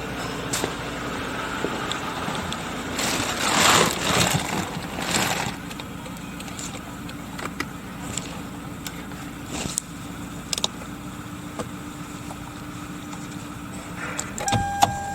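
Toyota Crown Majesta's 1UR-FSE 4.6-litre V8 idling steadily, with a stretch of hiss a few seconds in and scattered clicks. A short electronic beep sounds near the end.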